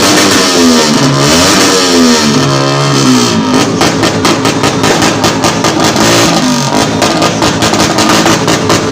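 A vehicle engine revved hard through a loud exhaust, its pitch sweeping up and down several times in the first few seconds, then running on loud.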